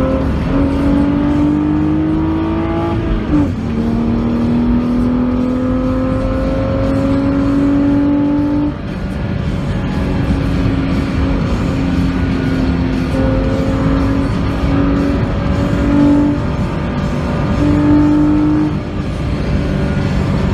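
BMW Z4 3.0i's straight-six engine heard from inside the cabin, pulling hard with its pitch climbing, then dropping sharply about three seconds in at an upshift. It climbs again more slowly, eases off near the middle, and then runs at steadier revs with small rises and falls, over constant road and wind rush.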